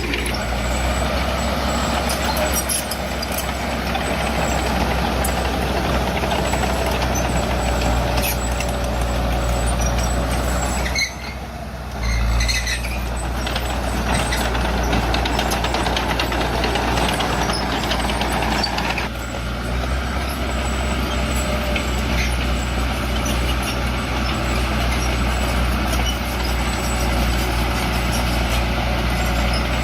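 Bulldozer's diesel engine running steadily at work. It drops away briefly about eleven seconds in and picks up again a second later.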